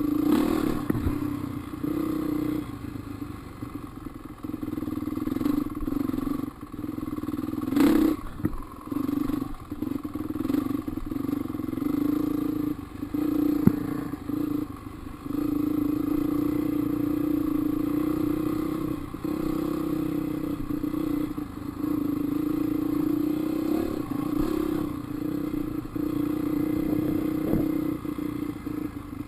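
450-class four-stroke dirt bike engine running as the bike is ridden along trails, the throttle opening and closing so the engine note keeps dipping and swelling, with a few sharp knocks and clatter from the bike over rough ground.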